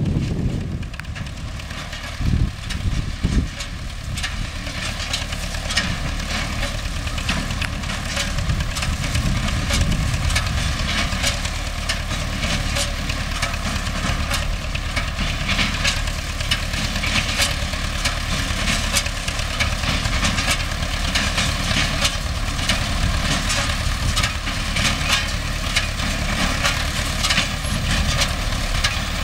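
Belarus MTZ-5 tractor's diesel engine running steadily while driving a hay baler, with a couple of thumps about two to three seconds in and rapid irregular clicking and clattering over the engine.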